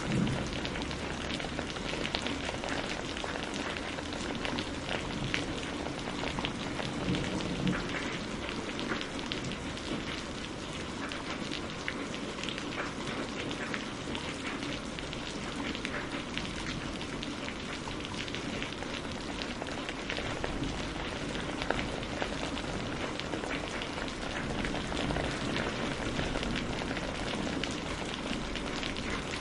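Steady rain falling, with many close drops ticking through an even hiss.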